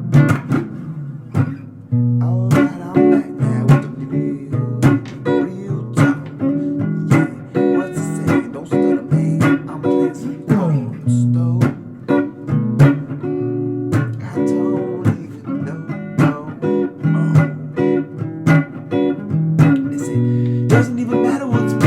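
Guitar improvising a blues, with quick single-note runs, strummed chords and a few sliding notes.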